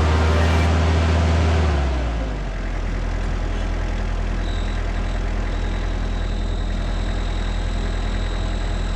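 Kubota excavator's diesel engine running steadily. It is louder for about the first two seconds, then settles to an even level.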